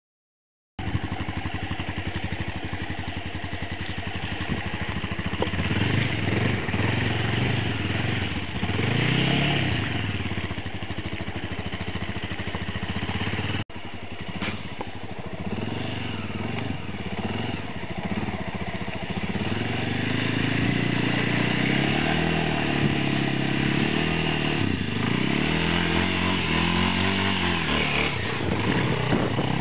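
Honda AX-1's single-cylinder four-stroke engine running under load off-road, revving up and down repeatedly as the throttle is worked. There is a brief break about halfway through.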